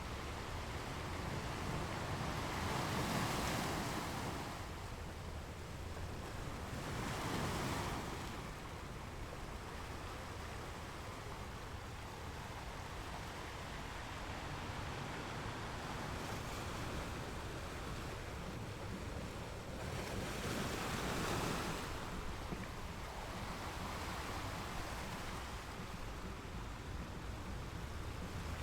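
Ocean waves washing on a beach, a steady hiss of surf with a few louder breaking waves swelling and fading, about three seconds, seven seconds and twenty-one seconds in.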